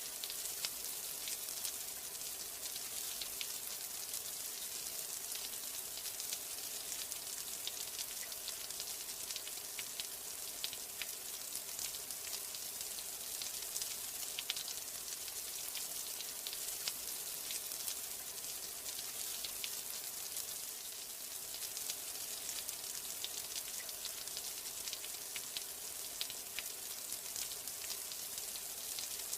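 Steady rain: a dense, even hiss of falling drops, strongest in the high range, with many small sharp drop ticks scattered through it.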